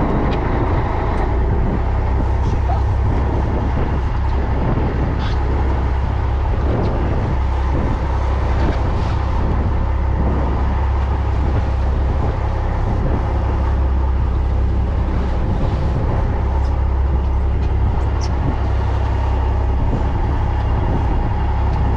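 Steady low rumble of a fishing boat's engine running, with a haze of wash noise over it.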